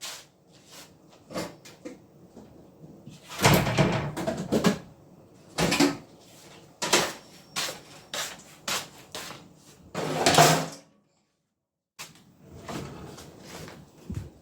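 Kitchen tidying: a string of knocks and clatters from cupboard doors, drawers and household items being handled, with louder bursts of clattering about four seconds and ten seconds in.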